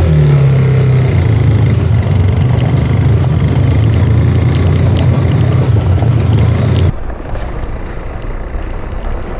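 Motorcycle engine running steadily at low revs on an off-road trail. About seven seconds in, the sound cuts off abruptly to a quieter, steady hiss.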